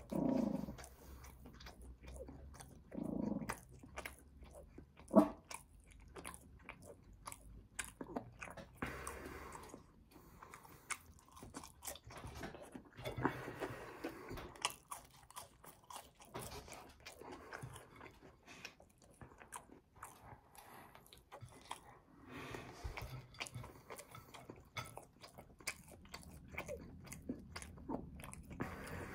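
A person biting and chewing french fries and a bacon cheeseburger, with many short wet mouth clicks and crunches. There is one sharp, louder click about five seconds in.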